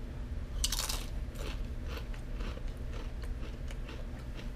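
A crisp Rancheritos chili corn chip being bitten with a loud crunch about half a second in, then chewed with repeated smaller crunches.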